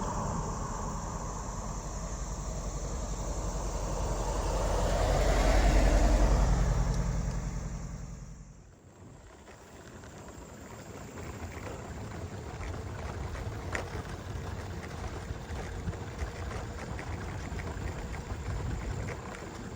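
A car drives past with a low engine rumble that swells to its loudest about six seconds in and then fades away. Quieter steady background noise follows.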